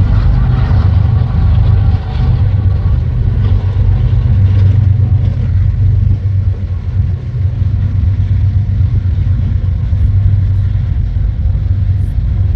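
Freight train passing close by: a loud, steady, heavy low rumble.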